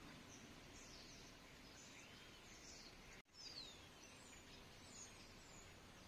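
Faint bird chirps and one short falling whistle over a quiet outdoor background hiss. The sound cuts out for an instant about three seconds in.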